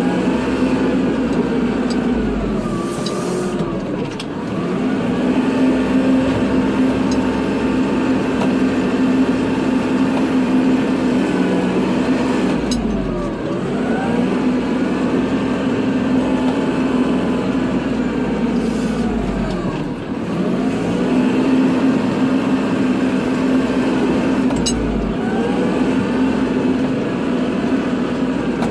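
Kubota diesel tractor engine running under load while plowing snow. The engine note dips and comes back up three times, about every eight seconds, as the load changes.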